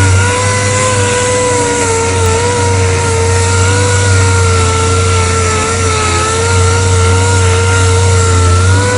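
Dual-action sander running continuously on a bumper repair, its steady whine sagging slightly partway through and rising again near the end, over a broad hiss of sanding.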